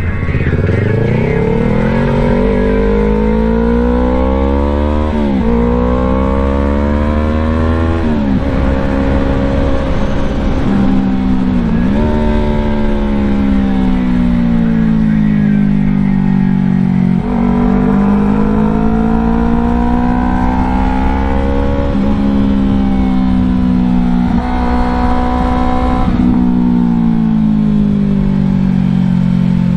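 Yamaha YZF-R3's parallel-twin engine revving up and easing off through a run of bends. The pitch climbs and drops sharply at quick gear changes about 5 and 8 seconds in, then rises and falls more slowly for the rest.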